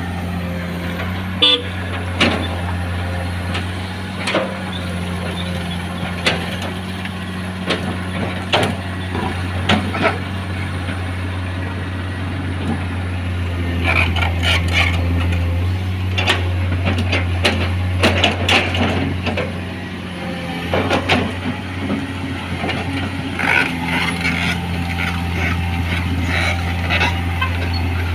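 Heavy truck's diesel engine running steadily at low revs, with sharp knocks and clatter scattered over it.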